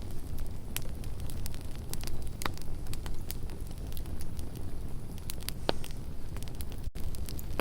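Campfire burning with a steady low rumble and irregular sharp crackles and pops from the burning wood, a few louder than the rest. A split-second gap in the sound near the end.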